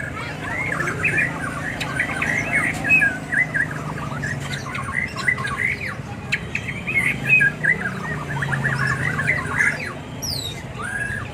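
Many caged birds chirping and squawking together in a dense, overlapping chorus of short calls, over a low steady hum.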